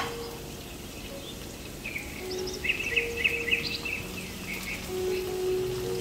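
Onions and chilies sizzling quietly in oil in a frying pan, a steady hiss. A sharp click comes at the very start, a quick run of bird chirps comes in the middle, and soft held music tones play underneath.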